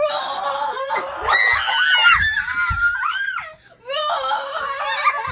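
Children screaming and laughing in high-pitched voices, in two long stretches with a short break a little before four seconds in.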